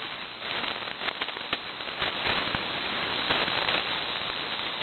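AM receiver on the 75-metre band (3885 kHz) giving out a steady rush of static, broken by frequent sharp crackles and crashes typical of lightning static.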